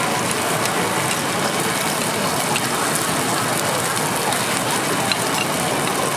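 Giant takoyaki frying in oil in a takoyaki griddle: a steady sizzling hiss, with a few faint ticks of metal skewers against the pan as the balls are turned.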